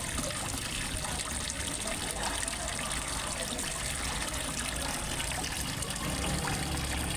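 Water trickling and splashing steadily into a fish pond, an even, unbroken flow.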